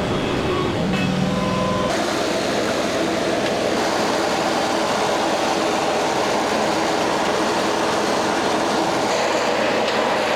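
LS XR3140H compact tractor's diesel engine running steadily. The low rumble drops away abruptly about two seconds in.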